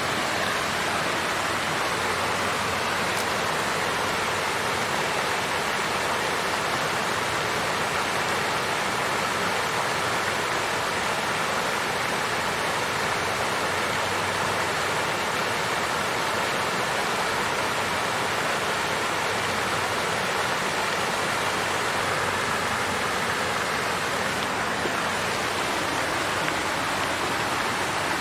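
Water fountain running: a steady, even splash and trickle of falling water.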